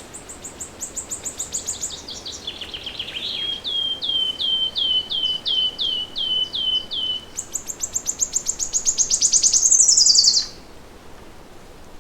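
A songbird singing one long, varied song. It starts with fast high notes stepping down in pitch, then about a dozen clear slurred notes at roughly two a second. It ends with a fast, high trill that grows louder and stops suddenly about ten and a half seconds in, over a faint steady hiss.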